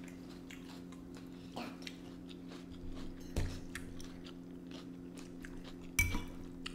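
A person chewing and biting food close to the microphone, with scattered small crunching clicks and two sharper knocks, one about halfway through and one near the end.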